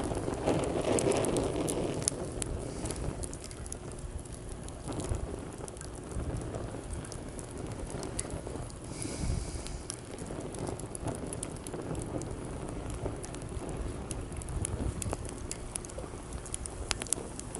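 Wood campfire crackling, with frequent sharp pops and snaps over a steady wash of sea waves. The wash swells louder in the first two seconds.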